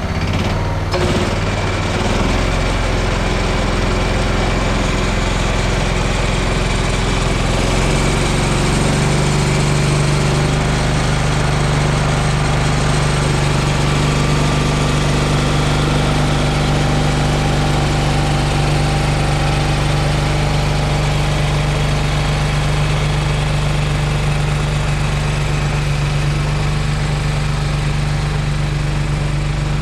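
John Deere 185 lawn tractor's 17-horsepower Kawasaki engine running a single-stage snowblower, loud and steady; the engine note climbs over the first several seconds, then holds.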